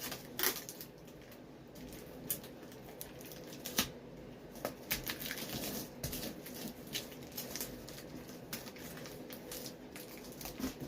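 Handling noise from tape being worked around a glued rubber boot: scattered light clicks and crackles, with a few sharper clicks in the first five seconds, over a faint steady hum.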